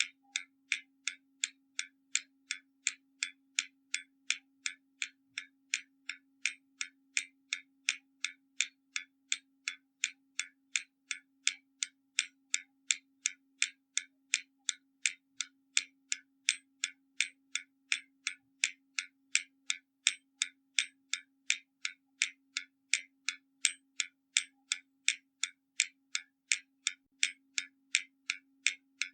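Hermle mechanical skeleton clock ticking, its escapement giving sharp, perfectly even ticks at about two and a half a second.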